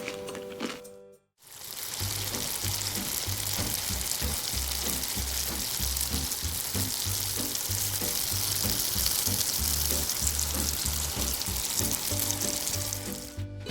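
Food frying in hot oil: a steady, dense sizzling hiss that starts suddenly about a second and a half in and stops just before the end, over background music with a low bass beat.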